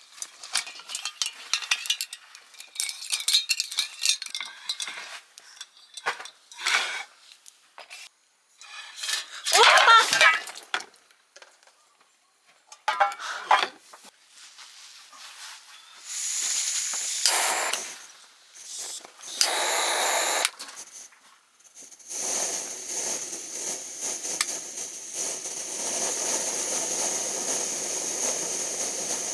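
Cookware and utensils clinking and knocking, with two short louder rushing bursts, then a steady hiss that starts about 22 seconds in and keeps going.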